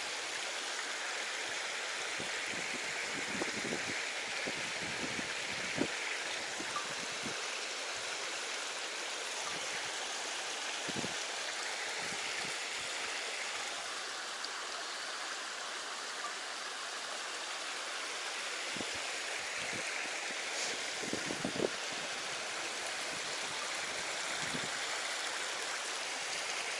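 Steady rush of running water from a mountain stream, with a few faint knocks.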